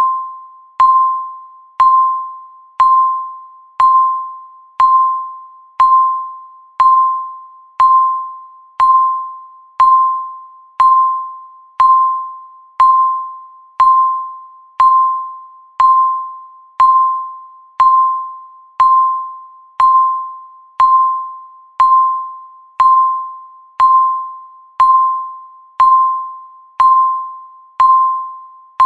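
Countdown timer beep sounding once every second: a single clear tone that starts sharply and fades out before the next, repeating evenly, about twenty-nine times.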